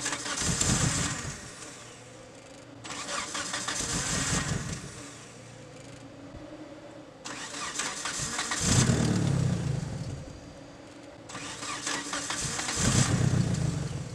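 1997 Mitsubishi Eclipse GST's turbocharged 4G63 four-cylinder being cranked by the starter in four separate tries of about two seconds each. The engine turns over but does not stay running, even though it has spark and fuel.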